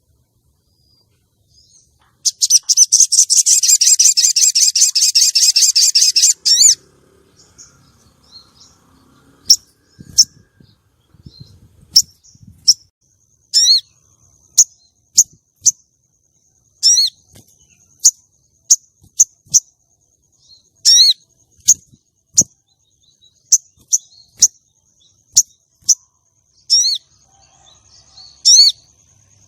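Female sogon calling: a loud, very rapid rattling trill lasting about four seconds, starting about two seconds in, then a long series of short, sharp single chirps spaced half a second to a second apart. A faint steady high tone runs under the chirps.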